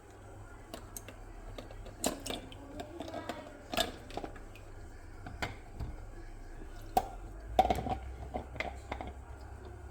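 Lego bricks and plastic pieces being handled, giving irregular small clicks and light knocks.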